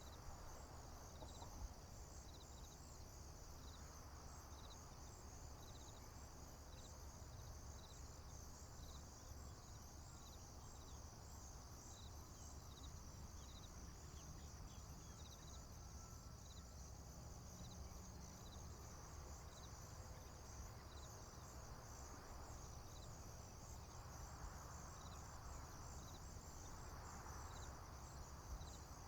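Faint chorus of crickets and other insects trilling steadily in a high pitch, with a separate chirp repeating about once a second. A low rumble runs underneath, with soft swells of noise rising in the last third.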